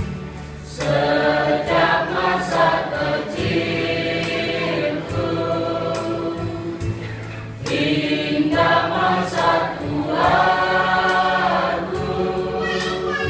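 Elderly church choir singing a hymn, phrase by phrase, with short dips between phrases, about a second in and near the middle.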